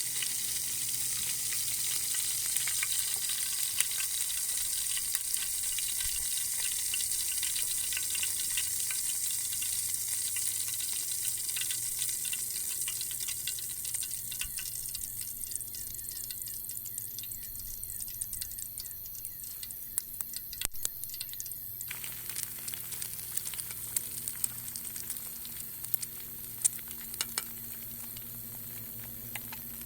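Steady rain hiss with many small drips and ticks, easing gradually and thinning out abruptly about two-thirds of the way through.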